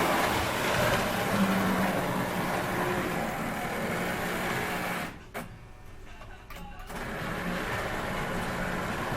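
O gauge Lionel #44E electric locomotive running on the track, a steady mechanical whir with a low hum. The sound drops away for about two seconds around the middle, then picks up again.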